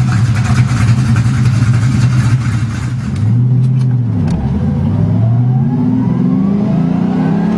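Twin-turbocharged Mustang GT 4.6-litre V8 running at steady high revs for about three seconds, then the revs fall and climb again several times, with a rising whine over the last few seconds.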